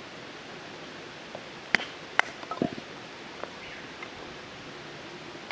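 A few sharp clicks and knocks, two single ones followed by a quick little cluster, over a steady hiss.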